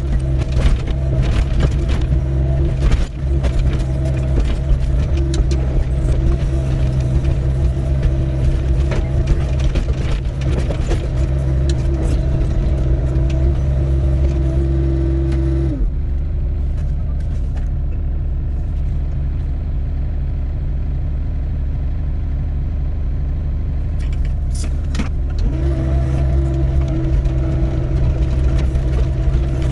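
Doosan 55W wheeled excavator's diesel engine working under hydraulic load while digging in rocky ground, with a clatter of sharp knocks and scrapes. About halfway through the engine drops to a lower, quieter speed, and a few seconds before the end it picks back up.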